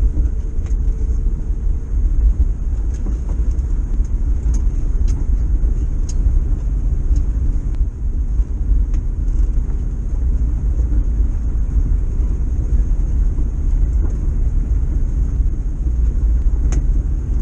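A 1973 VW T2 bus driving along, its rear-mounted air-cooled flat-four engine and road noise making a steady low rumble.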